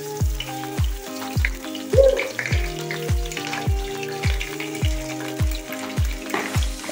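Ginger-garlic paste sizzling and spitting as it drops into hot oil in a nonstick pot. Background music with a steady drum beat plays over it.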